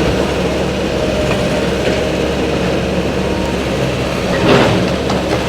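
Diesel engine of a demolition excavator running steadily, with a brief crash of debris being torn down about four and a half seconds in.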